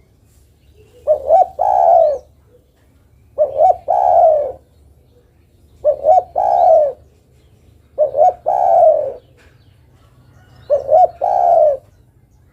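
Female derkuku dove cooing, a call to draw a male. Five phrases come about every two and a half seconds, each two short clipped notes followed by a longer coo that falls in pitch.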